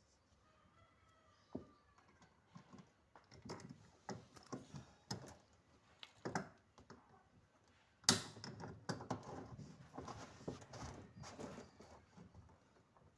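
Irregular clicks, taps and knocks of hard objects being handled, with a sudden louder clatter beginning about eight seconds in and continuing; a few faint chirps near the start.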